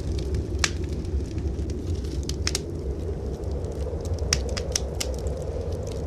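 Wood fire crackling in a fireplace: sharp irregular pops and snaps over a steady low rumble.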